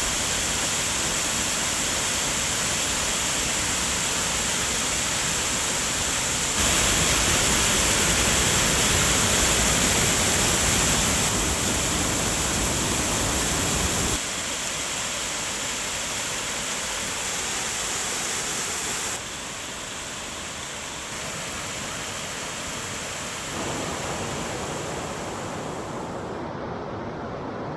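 Steady rush of moving river water, a full hiss-and-roar that jumps in loudness at several cuts between clips.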